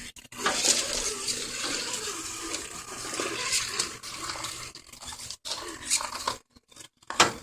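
Axial SCX10 RC crawler's small electric motor and gearbox whirring as it crawls, with a rustling, scraping hiss from the ground beneath it. The sound drops out briefly a couple of times near the end.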